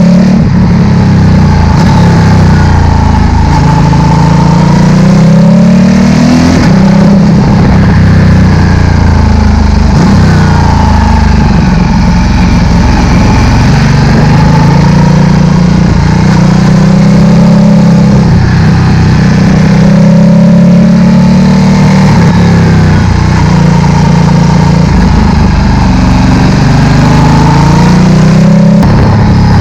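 Ducati Multistrada 1260's V-twin engine through a Termignoni slip-on exhaust, running loud, its pitch climbing and falling back several times.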